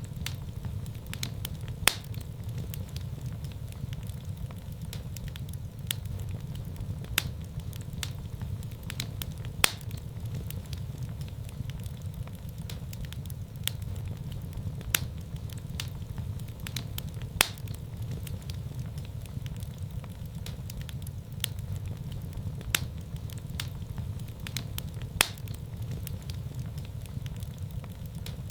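Wood fire burning in a fireplace: a steady low rumble of flames with scattered sharp crackles and pops, a few louder pops standing out.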